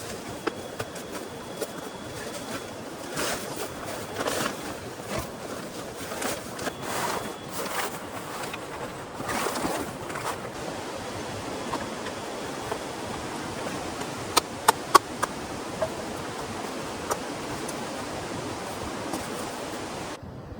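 Heavy rain falling steadily, a dense even hiss, with scattered louder knocks and rustles in the first half and a few sharp clicks about two-thirds of the way through.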